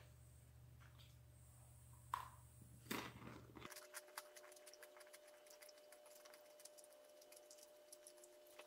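Near silence with faint, scattered crunching clicks of a mouthful of saltine cracker and fried mackerel being chewed.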